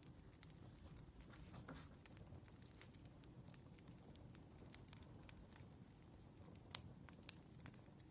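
Wood fire crackling: irregular sharp pops and snaps over a low, soft rumble, with one louder pop late on.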